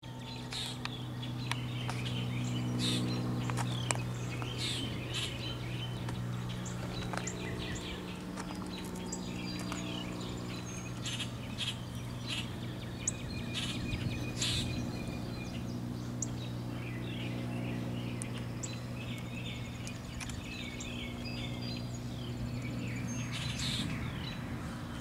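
Birds chirping and singing in many short calls, over a steady low hum that fades and swells.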